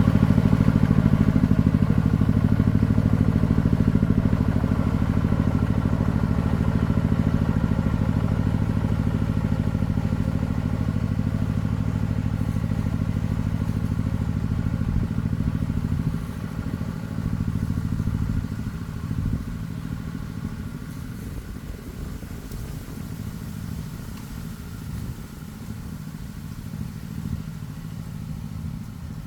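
Single-cylinder diesel engine of a công nông farm three-wheeler running steadily. About halfway through it becomes quieter and more uneven.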